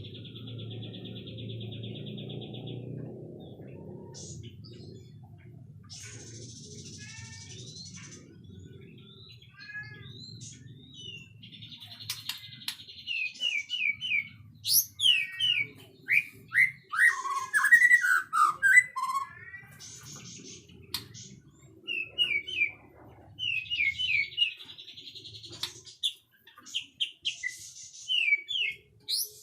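White-rumped shama singing: phrases of rapid buzzy trills alternate with quick sweeping whistled notes, and the song grows louder and busier about halfway through. A faint low hum runs underneath.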